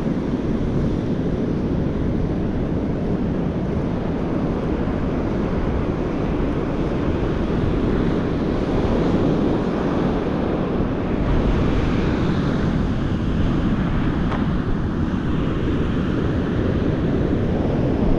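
Strong wind buffeting the microphone over the steady rush of ocean surf breaking on the beach.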